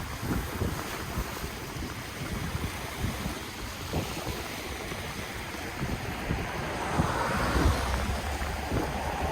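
Ocean waves washing onto the shore, with wind buffeting the microphone. The surf swells louder about seven seconds in as a wave breaks and washes in.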